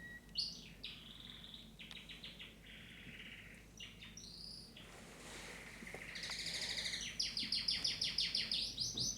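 Pet canary singing: scattered high chirps and short warbles at first, then from about six seconds in a fast, rising-in-volume trill of rapidly repeated notes.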